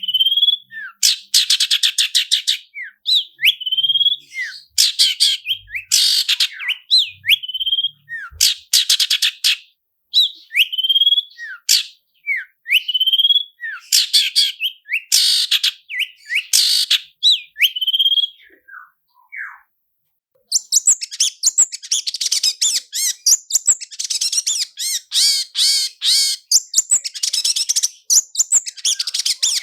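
Long-tailed shrike (cendet) singing: rapid trilled rolls alternating with short rising whistled notes, then after a brief pause about two-thirds of the way through, a continuous fast chatter.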